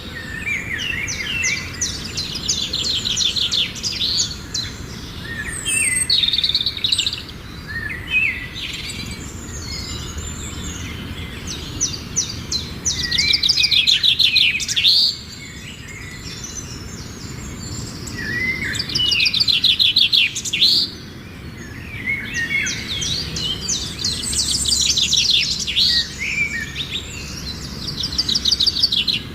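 Songbirds singing: several bursts of fast, high trills about two seconds long each, separated by scattered chirps and short phrases.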